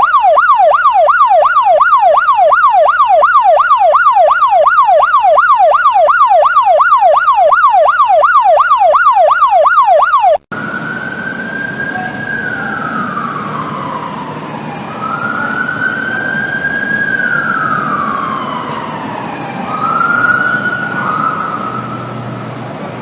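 Emergency vehicle siren: first an electronic yelp sweeping up and down about three times a second, then, after a sudden cut about ten seconds in, a slower wail rising and falling over the noise of traffic.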